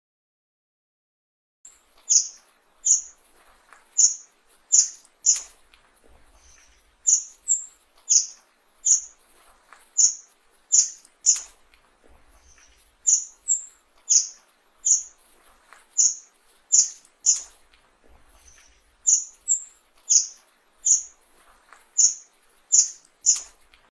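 Fire-tailed myzornis calling: a string of short, very high, thin notes, about one and a half a second, coming in runs with brief pauses between them. It starts about two seconds in.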